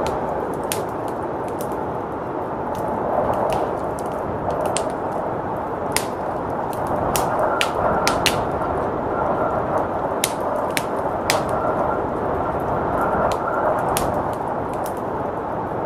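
Wood fire crackling with sharp, irregular pops, over the steady rush of blizzard wind.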